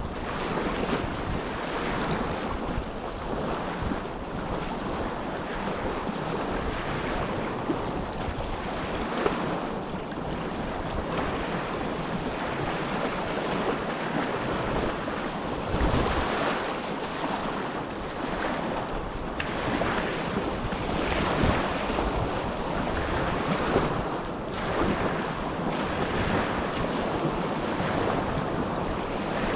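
Small waves lapping and washing on the Dead Sea shore, a steady rushing wash that swells and eases, with wind buffeting the microphone now and then.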